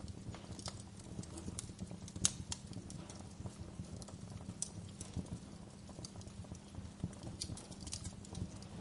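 Wood fire crackling in a fireplace: irregular sharp pops and snaps over a low steady rumble, with one louder pop a little over two seconds in.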